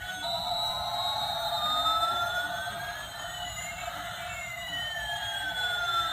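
Battery-operated toy airplane playing an electronic siren-like sound effect: one tone sweeps up while another sweeps down, crossing about four seconds in, over a steady hum.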